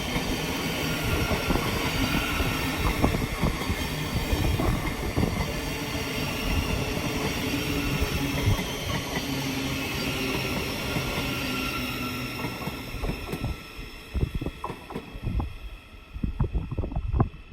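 Thameslink Class 700 electric multiple unit coming into the station, a steady rumble of wheels on rail with a whine of several steady tones from its traction equipment. The sound dies away about thirteen seconds in, leaving a few short rumbles near the end.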